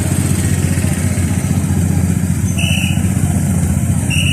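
Motorcycle engines running steadily at low speed, a continuous drone, with two short high-pitched beeps, one past halfway and one near the end.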